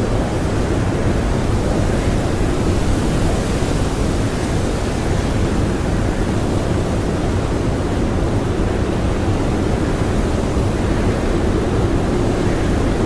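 Blizzard wind blowing steadily: a dense, unbroken rushing noise, deepest in the low range, with only slight swells.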